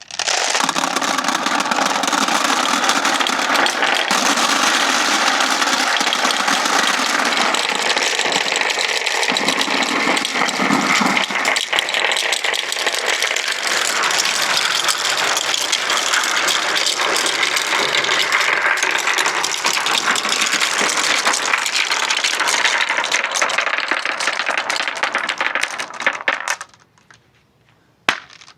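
Many marbles rolling and clattering down wooden ramps, a dense continuous rattle of clicks and knocks that stops suddenly near the end.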